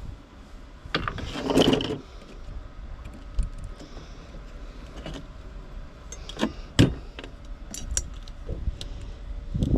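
Small metal parts clinking, rattling and knocking as scrap is handled and taken apart by hand: a short rattle a second or two in, then scattered sharp clicks and a knock near the end.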